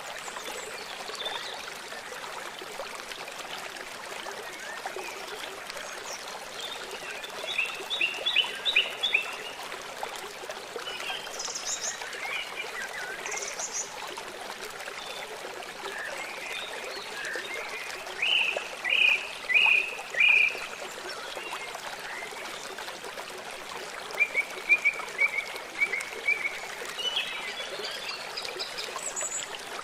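Forest birds singing over the steady rush of a small stream or trickling water. Song phrases come and go: a run of notes about eight seconds in, two high calls around twelve and thirteen seconds, a loud phrase of four notes near nineteen seconds, and a quick series near twenty-five.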